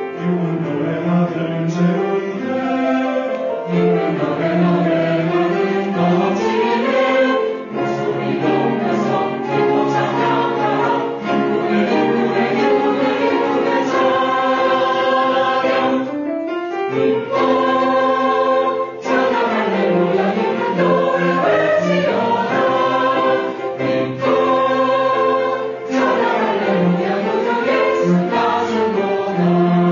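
Church choir singing a hymn in several voice parts, with sustained notes and brief breaths between phrases.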